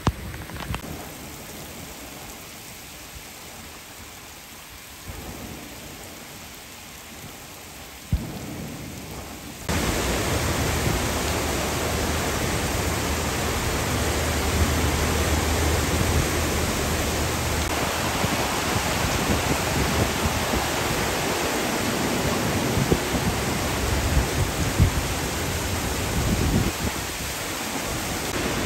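Rain falling on standing floodwater, fairly quiet at first. About ten seconds in it jumps to a much louder, steady rush of heavy downpour, with vehicles splashing through the flooded road.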